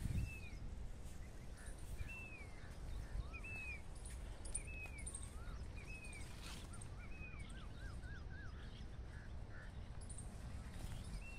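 Birds calling: one bird repeats a short, arched whistled note about once a second, and another gives a quick run of short notes near the middle, with faint high chirps. A steady low wind rumble runs underneath.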